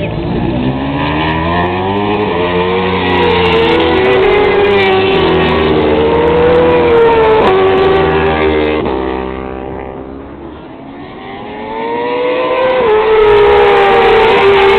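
Superbike racing motorcycles at high revs, the engine note climbing and stepping through gear changes. The sound fades about ten seconds in, then an engine note rises again near the end.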